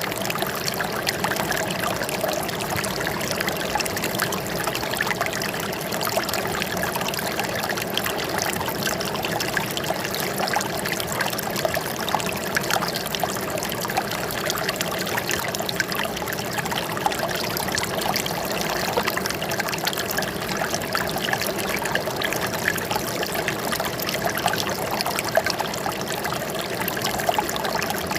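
Running water trickling and splashing steadily, a continuous spatter of small splashes.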